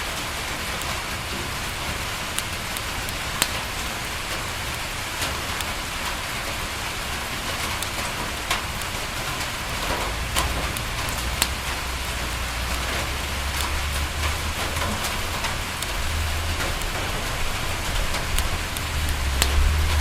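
Steady rain falling on a window, an even hiss broken by scattered sharp ticks of drops. About halfway through a low rumble builds underneath it and is strongest near the end.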